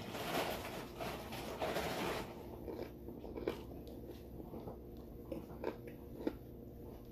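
A person chewing a mouthful of potato tots close to the microphone. There are crunchy chewing sounds for about the first two seconds, then softer chewing with a few sharp mouth clicks.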